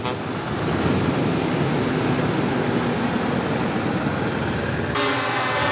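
Truck engines running as the trucks drive past, with a brief horn toot at the start. About five seconds in, a truck air horn starts a loud, sustained blast.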